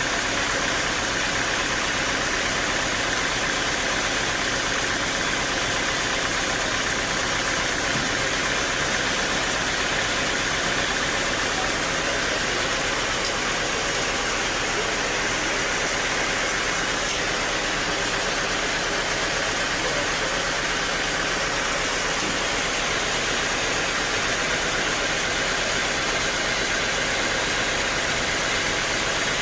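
Sawmill machinery running steadily, a continuous even noise with no breaks or changes.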